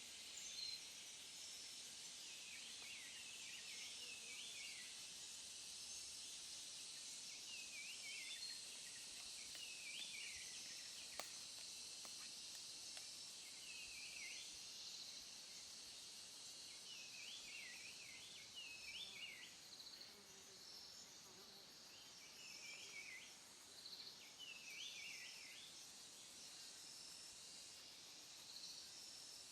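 Quiet forest ambience: a bird calls in short runs of quick notes every couple of seconds over a steady high insect hum. There is one faint click about eleven seconds in.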